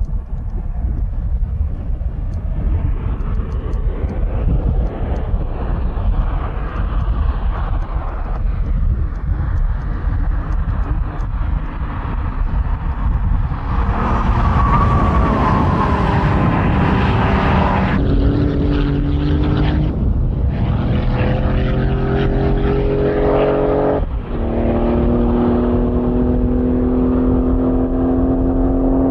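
Gemballa Extremo Porsche 911 Speedster's flat-six engine. A low rumble with road noise for about the first half, then hard acceleration through several gears, the engine note climbing and dropping back at each upshift.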